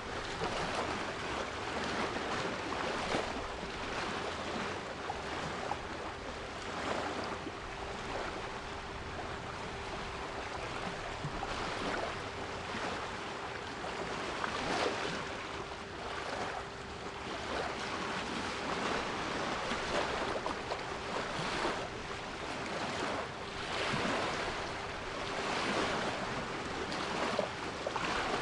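Sea waves washing and breaking in frequent short surges, with a steady 396 Hz pure tone held underneath.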